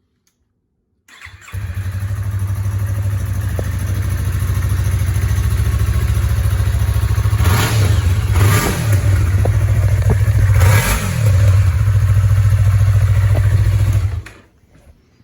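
2020 Yamaha R3's 321 cc parallel-twin engine on its stock muffler: it starts about a second in, idles steadily, is revved a few times in the middle, then is shut off near the end.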